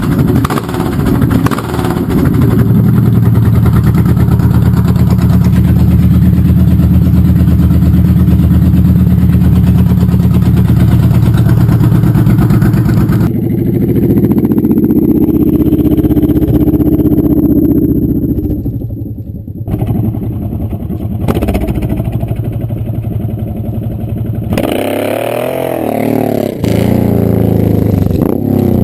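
Honda VTX1800F's V-twin running loud through a 3-inch Road Burner exhaust with the baffles out: a long steady high-rev run, then an abrupt change about halfway into shorter revs that rise and drop, with a quick swoop up and down in pitch near the end.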